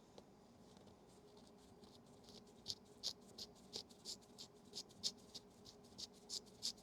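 Faint, quick scratching strokes, about three a second, starting a couple of seconds in: a small tool scrubbing oxidation off the metal of a camera's battery compartment.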